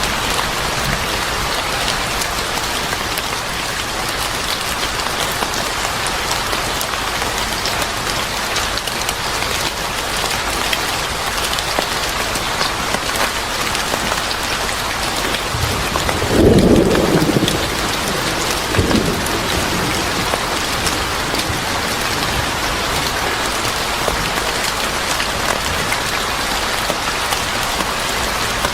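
Steady heavy rain falling on a surface, with a short low rumble of thunder about sixteen seconds in and a fainter one a couple of seconds later.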